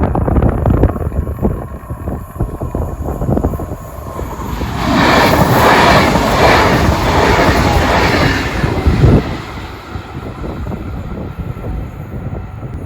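Train passing close by over the rails, a heavy rumble with many short knocks from the wheels, loudest for about four seconds in the middle and dropping back near the end.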